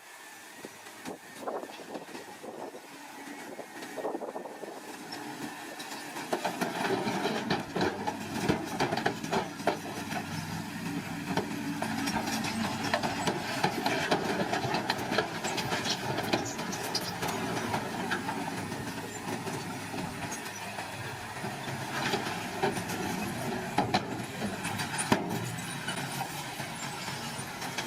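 Small crawler bulldozer working: its diesel engine runs under load while the steel tracks clank and squeal continuously. The sound grows louder about six seconds in.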